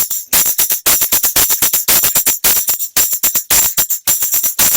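Tambourine shaken and struck, its metal jingles ringing in a fast, uneven run of loud strokes, several a second.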